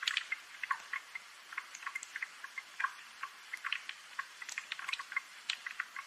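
Rain ambience: irregular drips and light ticks, several a second, over a faint hiss of rain.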